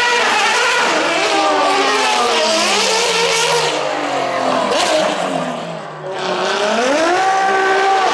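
A competition car engine at high revs, its pitch sliding down over several seconds. It dips briefly, then revs up sharply again near the end, over a hiss of tyre noise.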